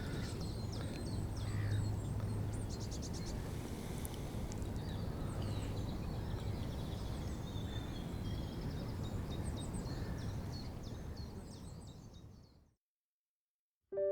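Small birds calling and twittering, with short high chirps and a rapid trill, over a steady low background noise. The sound fades out to silence about twelve seconds in.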